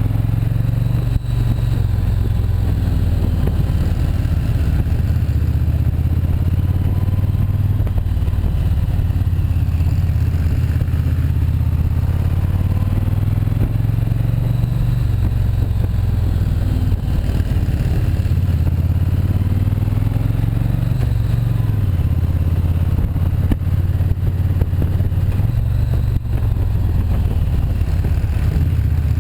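Motorcycle engine running under way, its pitch rising and falling again and again as the bike accelerates and slows.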